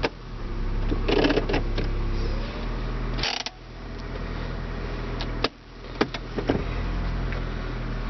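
1997 Honda Accord's engine idling steadily, with a few sharp clicks and knocks about a second in, near the middle, and twice more in the last third.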